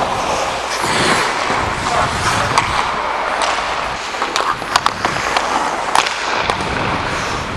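Ice skates scraping and carving on the rink ice, with a few sharp clacks of stick on puck, most of them in the second half.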